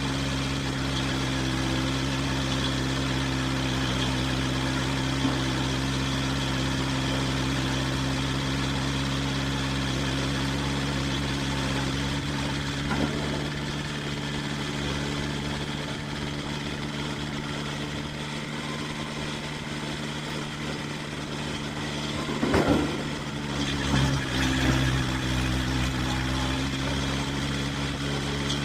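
Farm tractor engine running at a steady speed, with a few louder knocks and rattles near the end.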